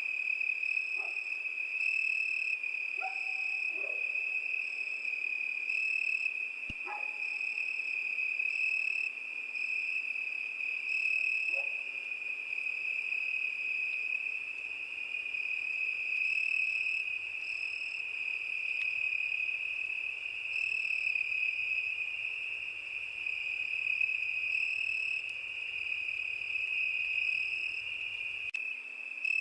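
Crickets chirring in a continuous, steady high trill. A few short, faint lower calls come from another animal in the first dozen seconds.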